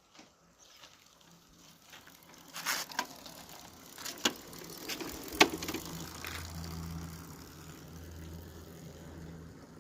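Several sharp clicks and knocks, then after the loudest click about halfway through a low steady hum sets in. This fits a Bajaj Pulsar NS200's single-cylinder engine being started and idling.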